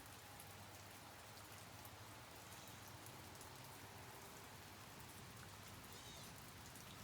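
Light rain falling, a faint steady patter with scattered drops.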